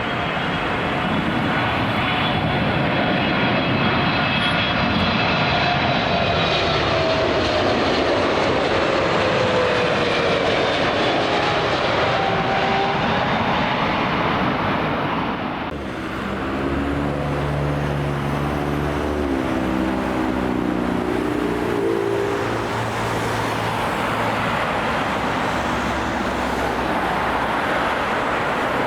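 Jet airliner engines roaring as the aircraft passes, with a whine that slowly falls in pitch. About halfway through the sound changes abruptly to a lower engine drone whose tones shift up and down in steps.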